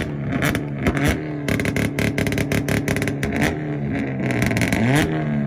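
Hyundai Veloster's engine held on a two-step launch limiter, with rapid exhaust pops and bangs over the bouncing revs. Near the end the revs drop and climb again.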